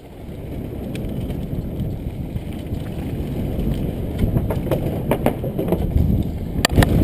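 Downhill mountain bike rolling fast over rough trail, with wind buffeting the GoPro microphone and tyre rumble getting steadily louder as speed builds. From about four seconds in come sharp knocks and rattles from the bike hitting rough ground, the sharpest near the end.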